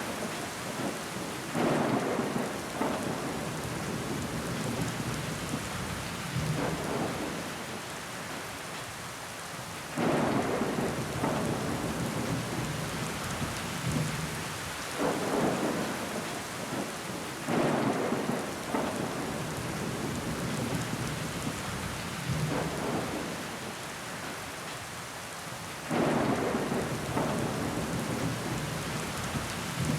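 Steady rain falling against window glass, with water running down the pane. Sudden louder swells come every several seconds and die away over a second or two.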